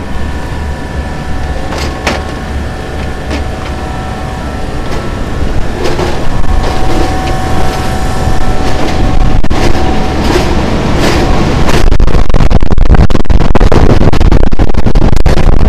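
Wind buffeting the phone's microphone over a steady low mechanical drone with several faint held tones. The buffeting grows much louder about twelve seconds in, with bumps from the phone being handled.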